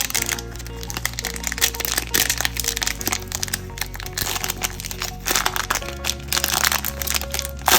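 Plastic wrapper of a trading-card hanger pack crinkling and crackling as it is torn open, with one sharp crack near the end, over background music.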